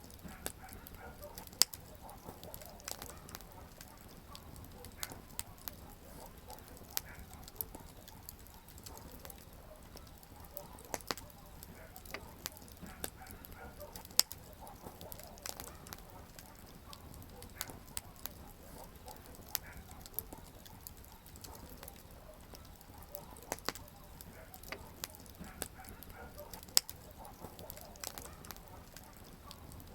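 Wood campfire burning: a steady low hiss of flames under frequent small crackles and pops. Three much louder snaps stand out, near the start, about halfway and near the end.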